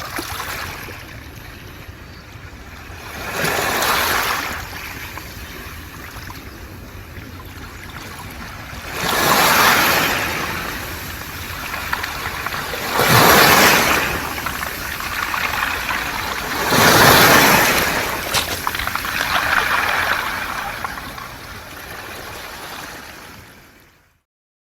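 Sea waves washing in and out over a beach of smooth round pebbles (mongdol), with the noise of the pebbles being stirred. The wash swells up about five times and cuts off suddenly near the end.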